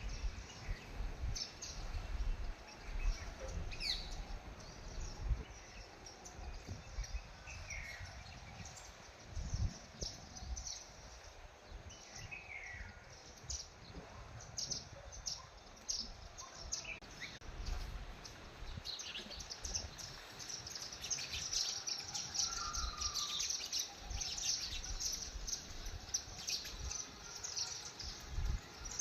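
Small birds chirping, scattered short calls at first and dense, overlapping high twittering in the second half, over intermittent low thumps.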